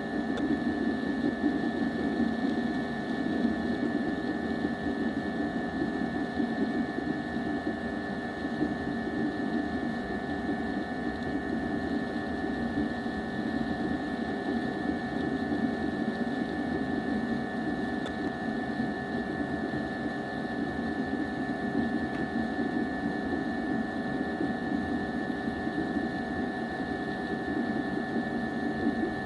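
Steady machine hum with a constant high whine, unchanging throughout.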